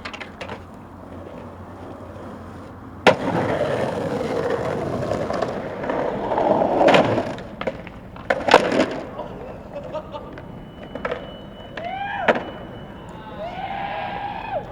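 Skateboard in motion: a sharp snap of the board about three seconds in, then the wheels rolling, and several hard clacks of the board hitting the ground a few seconds later.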